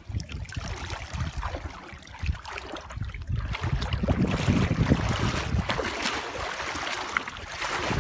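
Water sloshing and splashing with wind rumble on the microphone, getting louder about halfway through.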